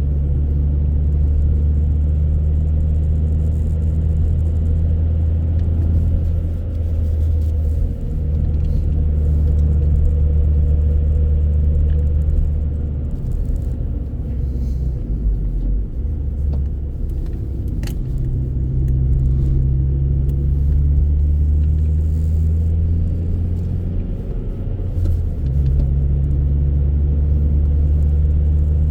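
A car on the move: a steady low rumble of engine and road noise that shifts in pitch a few times, with one brief click partway through.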